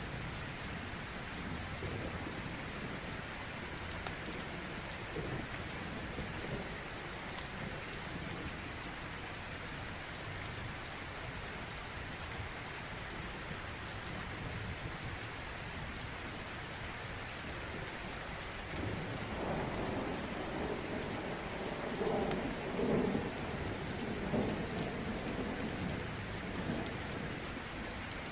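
Steady rain falling, with a rolling rumble of thunder that builds about two-thirds of the way through and peaks near the end.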